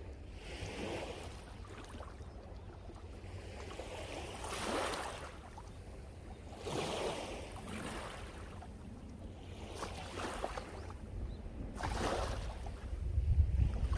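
Sea waves breaking and washing up the shore, about five surges of hissing surf rising and falling in turn. Wind rumbles on the microphone underneath, growing louder near the end.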